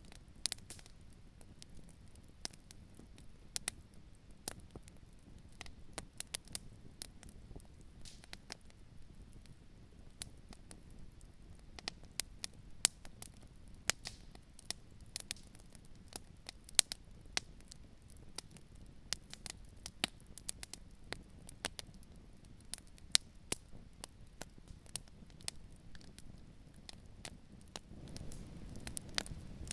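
Campfire burning, wood crackling and popping in irregular sharp snaps over a low rumble, which swells slightly near the end.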